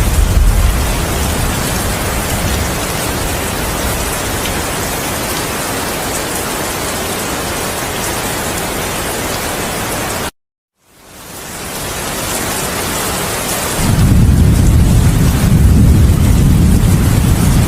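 Steady heavy rain with thunder: a low rumble dies away in the first second. About ten seconds in, the sound cuts out to silence for half a second, then fades back in. A loud, low, continuous thunder rumble begins about four seconds before the end.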